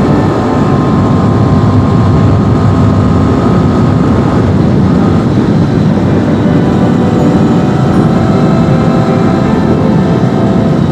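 Honda VFR800's V4 engine idling, a steady, even sound whose pitch stays nearly constant.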